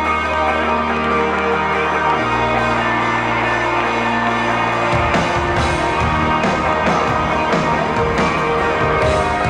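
Live rock band music at full concert volume. Held low bass notes shift pitch twice, and about five seconds in the drums and full band come in with a steady beat.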